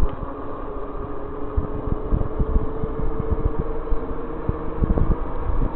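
Wind buffeting the microphone over the steady whine of an e-bike's electric motor, its pitch creeping slightly upward.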